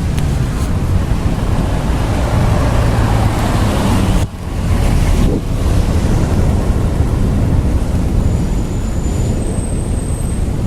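Thunderstorm noise: a steady low rumble with wind noise, dropping out briefly about four seconds in.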